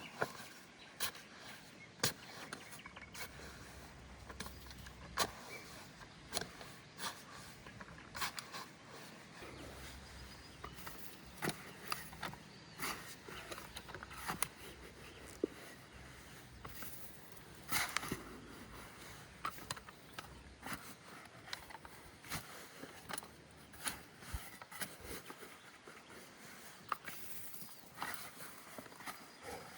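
Irregular sharp clicks and knocks, some louder than others, over a faint steady hiss.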